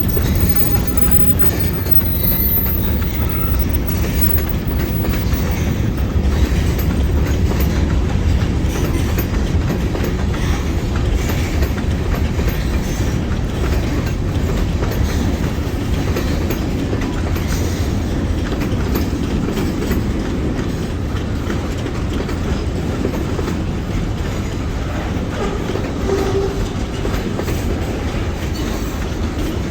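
Freight train cars rolling steadily past, with a continuous low rumble and the clickety-clack of wheels over the rail joints.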